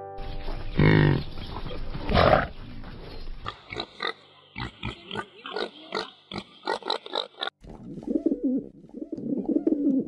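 A water buffalo lowing twice, then pigs grunting in a run of short, quick calls. About three quarters of the way in these give way to rock pigeons cooing.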